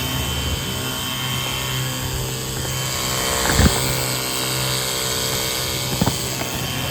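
Battery-powered portable pressure washer running steadily: its pump motor humming under the hiss of the water spray. A short knock about three and a half seconds in.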